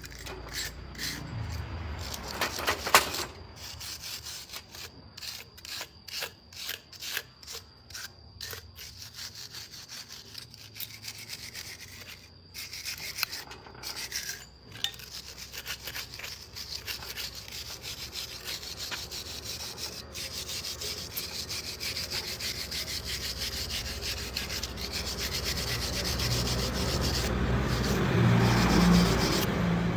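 Rubbing and scraping strokes, as of sanding or filing by hand: irregular short strokes at first, then a steadier rubbing that grows louder toward the end.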